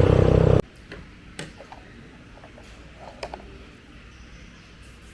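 Motorbike engine running, cutting off abruptly just over half a second in. Then a quiet stretch with a few faint ticks and clicks.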